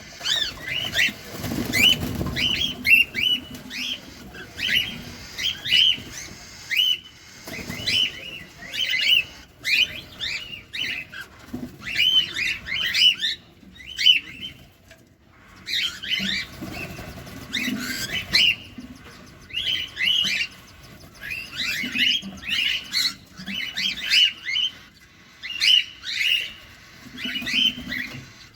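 Cockatiels chirping: many short, sharp chirps in quick runs, with a brief pause about halfway through.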